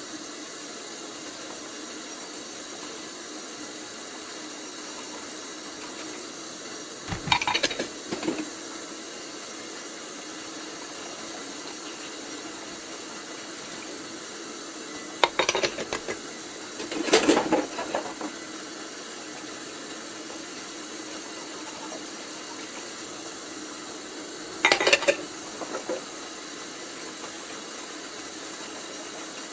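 Dishes clinking and clattering as they are handled in a kitchen sink, in four short bursts, over a steady hiss.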